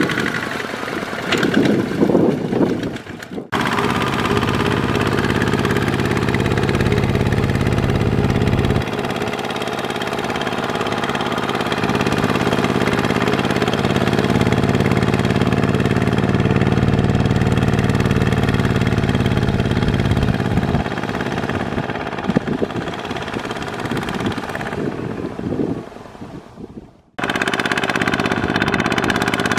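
Kubota ZT140 single-cylinder diesel on a two-wheel walking tractor running under plowing load, its low beat growing and easing for several seconds at a time as the load changes. The sound drops out abruptly twice, about three seconds in and near the end.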